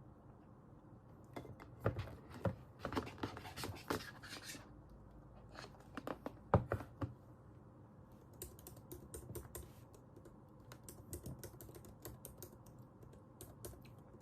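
Typing on a computer keyboard in bursts of keystrokes: heavier strokes in the first half, with one harder strike about six and a half seconds in, then lighter, quicker taps from about eight seconds on.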